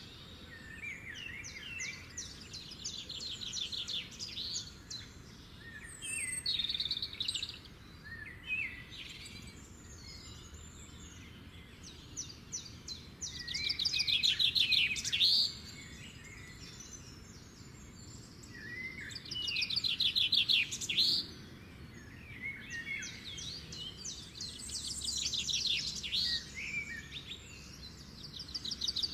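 Several songbirds singing over one another, with chirps, short whistled notes and fast trills of rapidly repeated notes. The loudest bursts come about 13 to 15 seconds in and again around 19 to 21 seconds.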